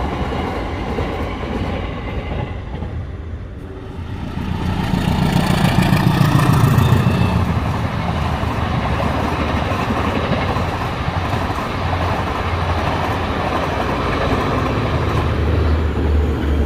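A train running past on the track, with a steady rail noise that dips briefly and then swells to its loudest about five to seven seconds in, with a deep rumble, before staying loud and steady.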